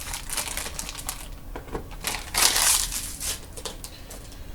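Plastic wrapper of a trading-card pack crinkling and tearing as it is opened, in short crackly bursts that are loudest a little past halfway.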